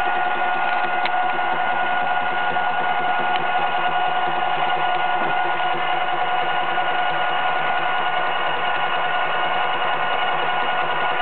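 Milling machine running steadily with a steady whine, its sharpened high-speed-steel form tool cutting a gear tooth in a Delrin blank.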